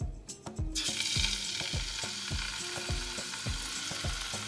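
Strips of chicken breast hitting hot butter and olive oil in a stainless steel frying pan, starting to sizzle suddenly about a second in, then a steady frying sizzle.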